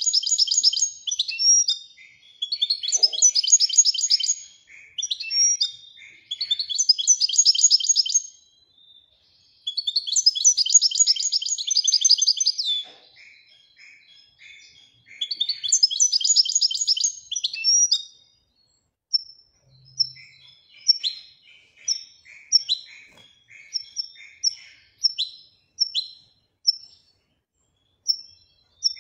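Moroccan goldfinch singing in the song style its fanciers call 'widaniya': five long phrases of fast, dense trills, then in the last third a run of short sharp notes, about one and a half a second.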